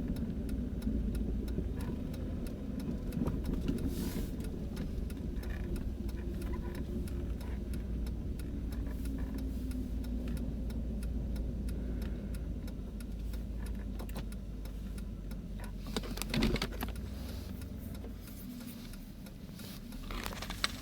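2000 Jeep Grand Cherokee driving, with a steady engine and road rumble that eases slightly toward the end, broken by sharp knocks about four seconds in, at about sixteen seconds and just before the end. The knocks are the front-end clunk that appears only after 30+ miles of driving and goes away after the Jeep rests a few minutes.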